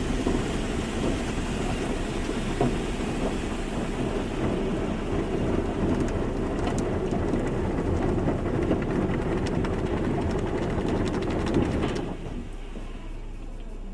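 Automatic car wash running: a dense, heavy wash of spraying water and machinery noise with a patter of fine clicks, which drops off suddenly to a quieter hiss about twelve seconds in.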